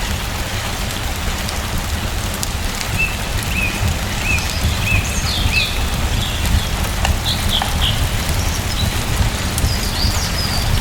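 Steady rain pattering, with a deep low rumble underneath. Small birds give short chirps over it: a run of about five quick falling chirps from about three seconds in, then a few higher notes.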